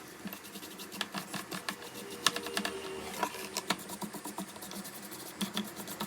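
Small screwdriver taking out tiny laptop motherboard screws: a quick run of light clicks and scratchy ticks, metal bit on screw heads.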